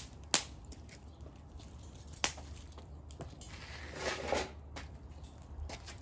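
Firewood burning in a fire pit, crackling and popping: a few sharp single pops spaced irregularly, with a denser burst of crackle about four seconds in.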